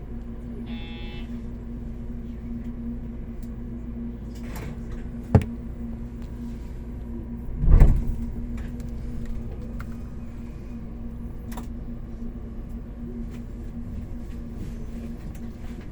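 JR Kyushu 813 series electric train standing with its onboard equipment humming steadily. A short electronic tone sounds about a second in, a sharp click follows, and near the middle a heavy thump, the sliding doors shutting.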